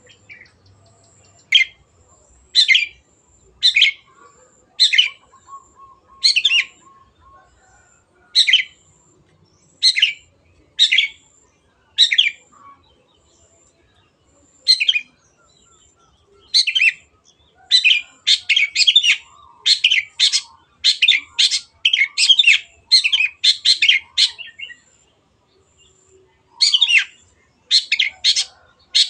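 Long-tailed shrike (cendet) calling in short, harsh notes. They come about a second apart at first, then in a fast run of two to three a second through the middle, then pause and resume near the end.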